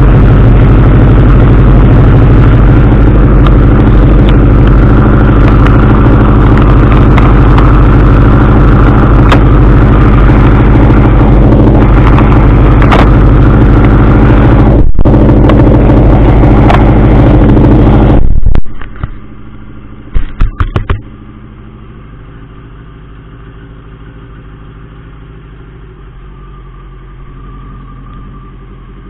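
Turbocharged Suzuki Hayabusa inline-four idling at a steady speed, very loud and close to the microphone. About 18 seconds in it turns suddenly much quieter and muffled, then a few loud knocks come close together before the steady quieter hum goes on.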